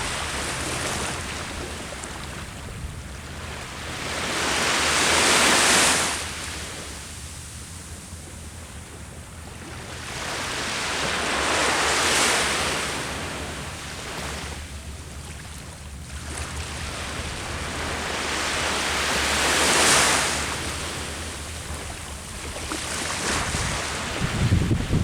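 Ocean waves breaking on the shore: three slow swells of surf that build and crash about every seven seconds, with wind rumbling on the microphone and gusting near the end.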